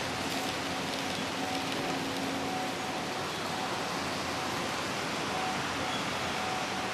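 Steady hiss of model railway exhibition hall ambience, with HO-scale model trains running on the layout. A faint steady hum fades out about three seconds in.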